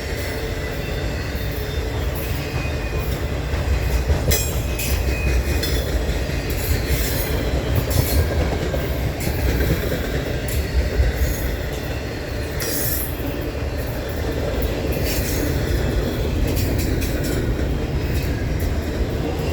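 Freight cars of a CSX intermodal train rolling past: a steady low rumble of wheels on rail, with scattered sharp clicks and brief high squeals from the wheels.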